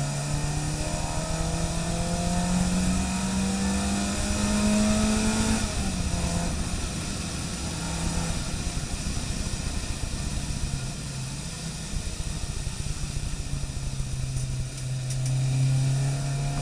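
Car engine under load, its pitch rising steadily for about six seconds, then dropping sharply as the throttle is lifted. It runs lower and steadier for a while, then picks up again near the end.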